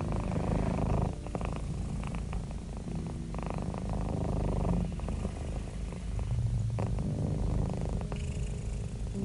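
Domestic cat purring steadily, a low rumble whose texture shifts every second or two.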